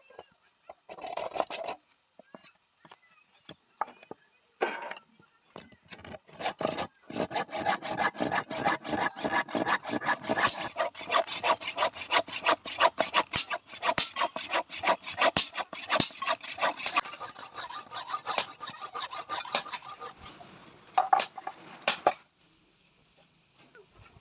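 Hand tool worked back and forth in rapid rasping strokes against the workpiece of a try square being made. A few separate strokes come first, then a long, even run that stops abruptly near the end.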